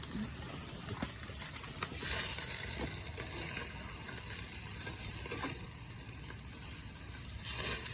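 Hot dogs sizzling on a grill: a steady frying hiss with a few faint ticks.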